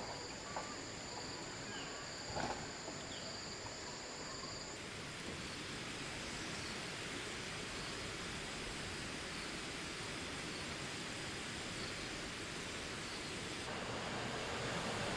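Steady background hiss with a few faint knocks in the first three seconds and a thin high whine that stops about five seconds in.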